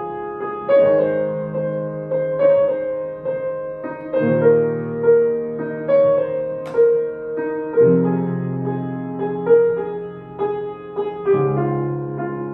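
Solo piano playing a slow, lyrical piece: held bass chords changing every few seconds beneath a melody of single notes.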